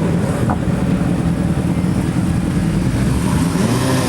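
Car engine running steadily, its revs rising briefly near the end.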